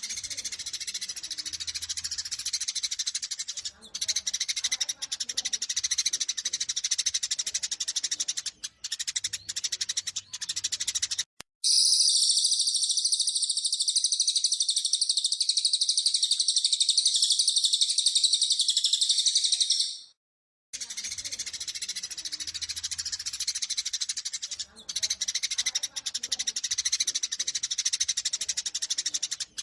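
Eurasian tree sparrows giving rapid, agitated fighting chirps and chatter. A short break comes about a third of the way in, then about eight seconds of denser, unbroken high chattering, then chirping again after another short break.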